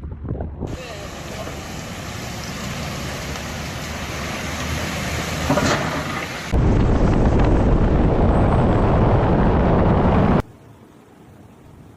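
Storm noise: a loud, even rushing hiss that begins about a second in, swells, steps up louder at about six and a half seconds, and cuts off abruptly at about ten and a half seconds.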